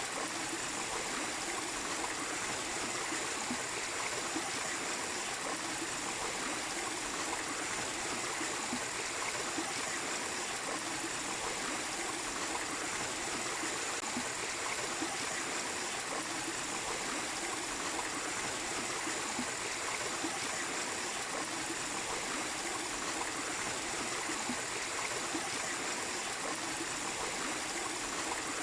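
Mini waterfall splashing and trickling steadily, an even rush of falling water with no breaks.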